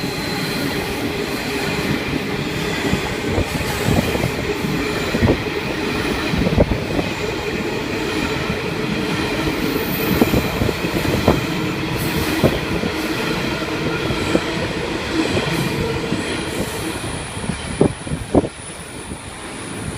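Freight train rolling past: a steady rumble of wagon wheels with irregular clacks over the rail joints and a faint high wheel squeal, easing slightly near the end.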